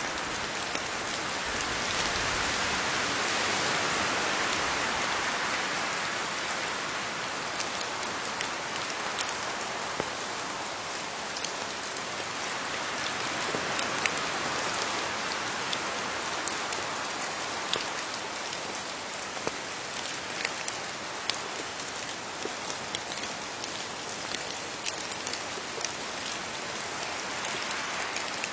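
Steady rain falling on leaves, a continuous hiss with scattered sharp drips of single drops, which come more often in the second half.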